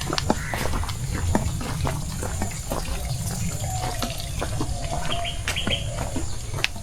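Rain falling, with close, irregular drips and splats of water over a steady low rumble; a bird calls briefly about five seconds in.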